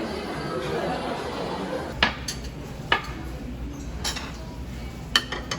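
Cutlery clinking against dishes, about five sharp clinks, two of them close together near the end, over a low murmur of voices.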